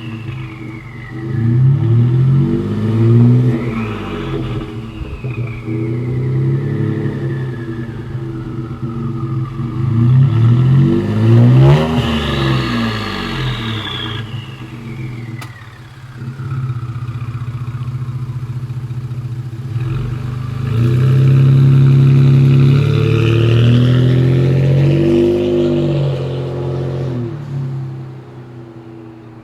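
Ford F-150 2.7L twin-turbo V6 revving through an aftermarket downpipe and cat-back exhaust, with an audible turbo whistle. There are two sharp revs, each followed by a high whistle that glides down as the revs fall, then a longer held rev near the end.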